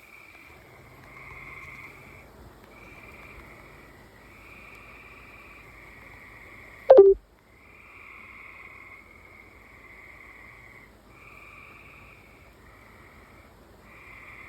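Frogs calling outside, one call of about a second after another in a steady chorus. About seven seconds in there is a single sharp, loud thump.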